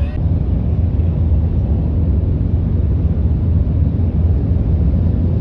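Steady low rumble of road traffic or of a moving vehicle, with no clear swell or pass-by.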